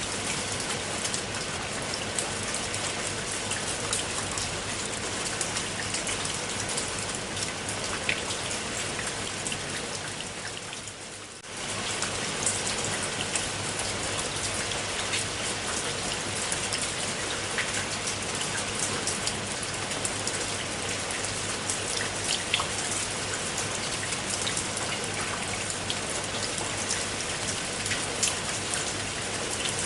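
Steady rain falling, with many separate drops ticking on a surface. The rain fades briefly about ten seconds in, then comes back abruptly.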